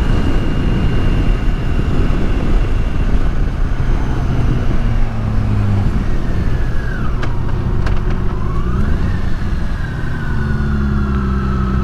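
Motorcycle engine running with wind rush as the bike slows. Its revs drop and rise again around the middle, then it settles into a steady idle near the end.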